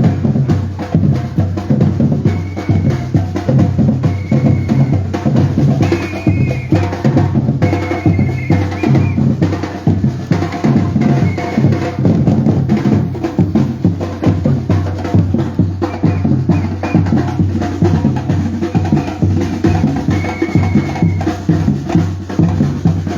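Batucada drum group playing a dense, steady rhythm on its drums, with a few short high tones sounding now and then over the beat.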